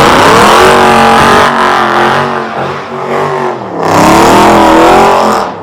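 Car engine revving hard in two long revs, held at high revs with the pitch wavering. The first rev eases off just after the middle of the clip; the second dies away right at the end.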